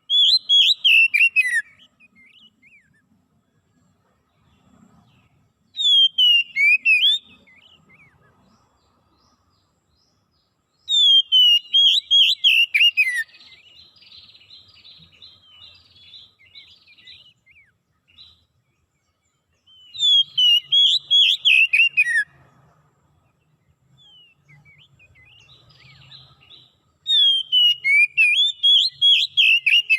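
A songbird singing the same loud phrase five times, each a quick run of clear whistled notes sliding downward and lasting about one and a half to two seconds, with softer twittering in between.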